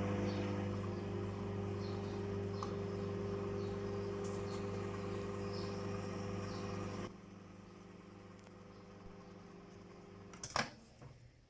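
Microwave oven running with a steady low hum. About seven seconds in, the hum drops to a quieter whir, and a single sharp click comes near the end.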